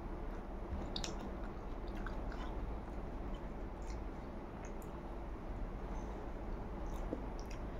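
A person chewing a mouthful of food, steady and fairly quiet, with small scattered clicks and ticks.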